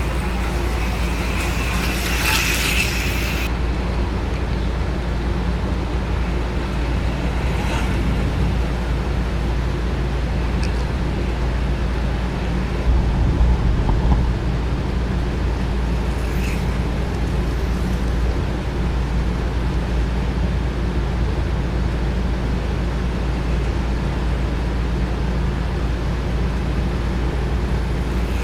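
Small electric motors of HO-scale slot cars and a model train running on a layout: a steady whirring hum, a little louder for a moment about halfway through.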